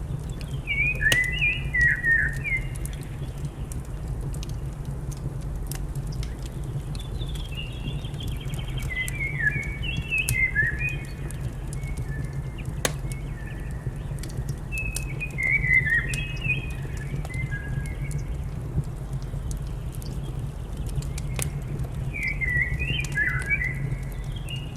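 Birds singing short phrases of quick chirping notes, four bouts in all, over the steady low rumble of a wood fire with scattered crackling pops.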